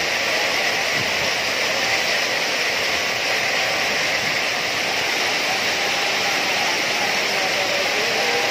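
Very heavy rain mixed with hail pouring down: a steady, dense hiss.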